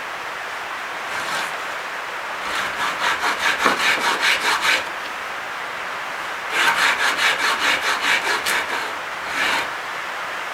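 A hand tool worked rapidly back and forth on a piece of dense hardwood, about six strokes a second, in two runs of roughly two seconds each, then one short stroke near the end.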